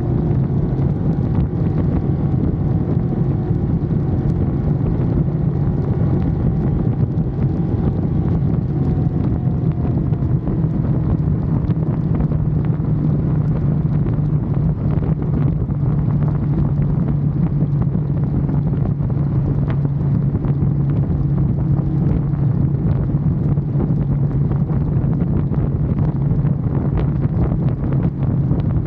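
Ducati Monster's L-twin engine running steadily at road speed, with heavy wind noise buffeting the helmet- or bike-mounted camera microphone.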